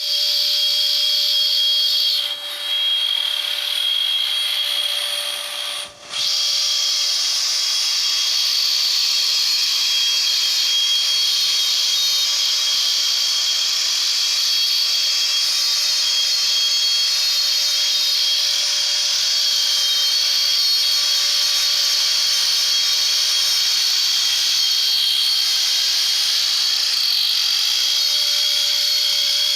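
Wood CNC router's spindle running with a steady high whine and cutting noise as it machines wood. The sound drops out briefly about six seconds in.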